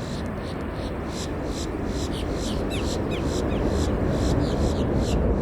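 Low rumble of a jet airliner growing slowly louder as it draws nearer, with a rhythmic high chirping, about three chirps a second, above it.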